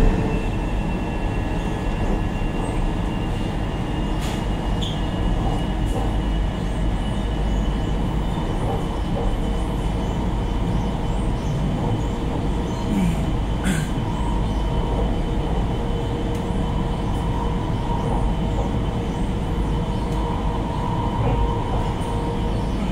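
Steady running noise heard from inside a moving electric passenger train's carriage: an even low rumble with a faint steady high whine, and a couple of light clicks around 4 and 14 seconds in.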